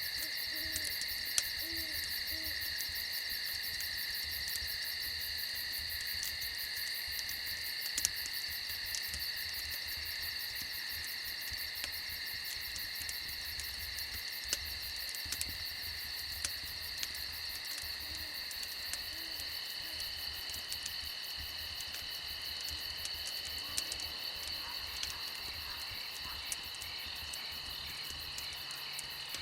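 Crickets chirring steadily in several high bands, with scattered crackles from a campfire and a few faint owl hoots.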